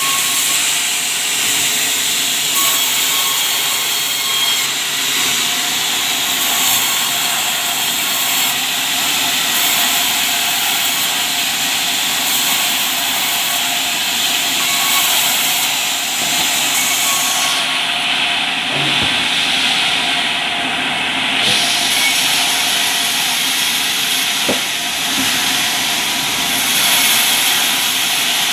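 Sawmill saw running continuously through albasia wood, a steady loud hissing whine with no breaks; the very highest part of the hiss thins out for a few seconds about two-thirds of the way through.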